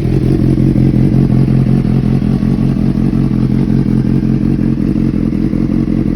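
Honda CBR600RR inline-four engine idling steadily through an aftermarket exhaust.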